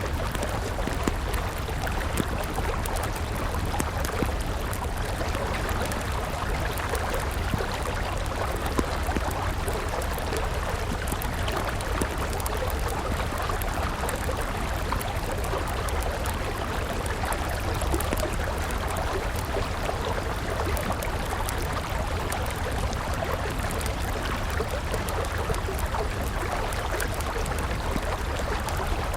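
A river flowing steadily, with a wood campfire crackling in frequent small pops.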